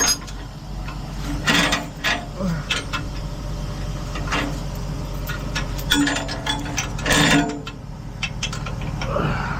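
Tow truck's engine running steadily with a low hum, with several sharp knocks and clunks scattered through it.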